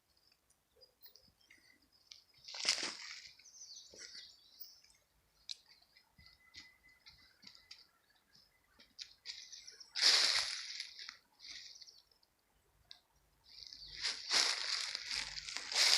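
Crunching and rustling, like footsteps or handling in dry leaf litter: one loud crunch about two and a half seconds in, another about ten seconds in, and steady rustling from near the end. Faint, short, high bird chirps come in between.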